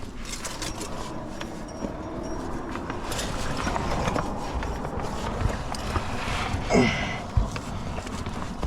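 A rock climber's body and gear scraping and shuffling against rock while squeezing through a narrow chimney, with a brief, louder falling sound about seven seconds in.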